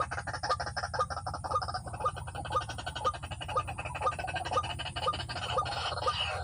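White-breasted waterhen calling: a short note repeated steadily about twice a second, over a dense, fast clicking background. Near the end, higher falling calls join in.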